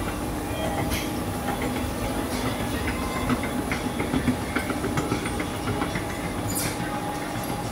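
Train running on the rails: a steady rumble with scattered clicks and knocks from the wheels and running gear.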